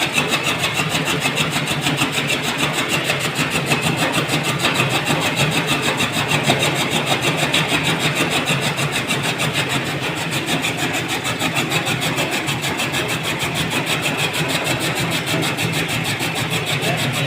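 Electric-motor-driven chaff cutter (kutti machine) running steadily, a loud mechanical clatter with a fast, even beat.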